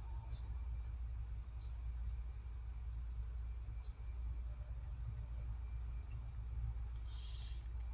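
Steady high-pitched insect chirring, typical of crickets, over a low steady hum.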